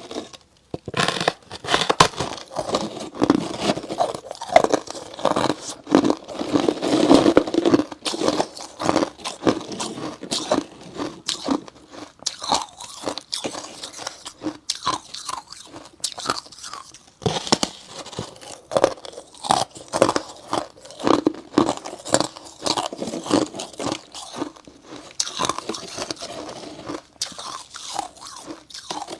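Freezer frost slabs being bitten and chewed close up: a continuous run of crisp, icy crunches with only short pauses between mouthfuls.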